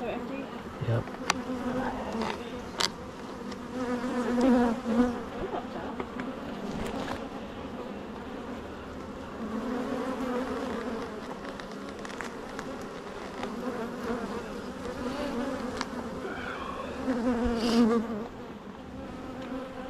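Swarm of honeybees buzzing around an open hive, a dense steady hum that swells and fades as bees fly close, with a few sharp clicks of the hive equipment being handled.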